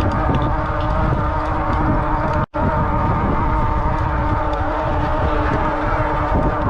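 Rad Rover e-bike's hub motor whining steadily under way, over low tyre rumble and wind on the microphone. The sound cuts out completely for a split second about two and a half seconds in.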